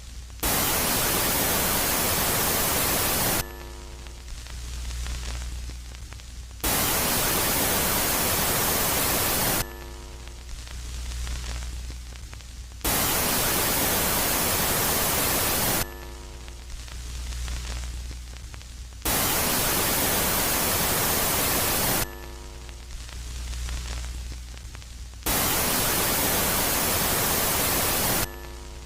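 Synthesized space-ambience static: loud, even hiss about three seconds long alternating with quieter stretches of low hum, five loud phases at about six-second intervals. A brief cluster of faint tones sounds as each quiet stretch begins.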